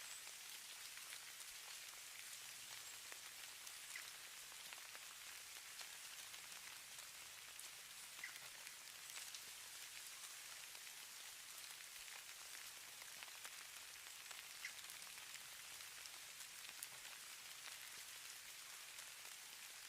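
Falling snow: a faint, steady hiss with scattered light ticks, a few slightly stronger than the rest.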